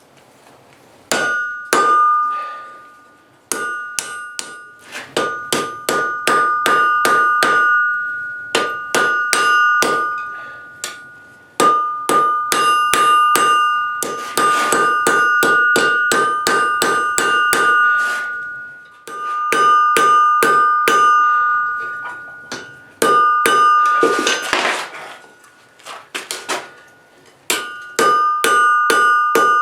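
Hammer striking steel on an anvil in runs of quick blows separated by short pauses, each blow leaving the anvil ringing with a bright, clear tone; a piece of crowbar steel being forged into a throwing knife.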